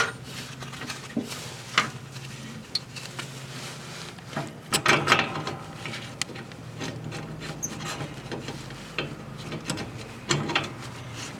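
Scattered clicks, knocks and scraping of metal parts and hand tools as the lawn tractor's variable speed pulley holder is bolted into place, with a longer run of scraping about five seconds in. A low steady hum sits underneath and fades after about seven seconds.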